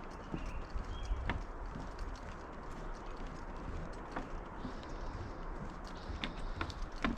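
Footsteps of someone walking a park trail, heard as scattered knocks over a steady hiss, with a few short bird chirps, one about a second in.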